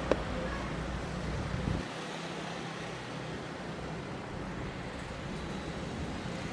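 Steady outdoor vehicle noise: a low rumble that drops away about two seconds in, over a continuous hiss, with one short click near the start.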